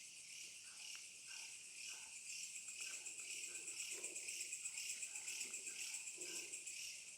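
Night chorus of crickets: a steady, rapidly pulsing high-pitched trill. Fainter, lower calls repeat about every second beneath it.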